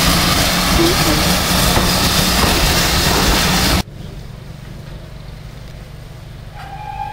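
A steam train running, heard as a loud rushing noise with a low rumble beneath. Just past halfway it cuts off suddenly to a much quieter low rumble, with a faint steady tone coming in near the end.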